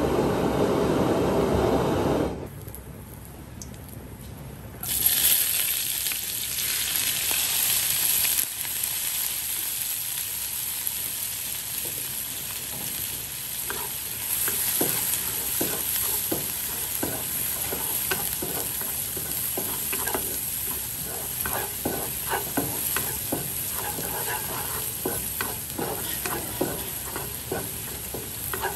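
Chopped spring onions hit hot oil in a nonstick wok, sizzling sharply about five seconds in and then easing to a steady fry as scallion oil is made. From midway on, a wooden spatula scrapes and taps against the pan as they are stirred. A louder rushing noise fills the first two seconds.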